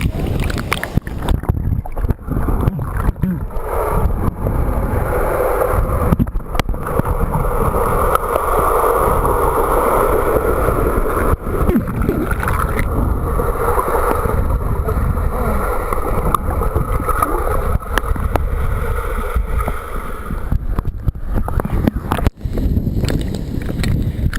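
Waterfall rushing steadily, with wind buffeting and rumbling on the microphone.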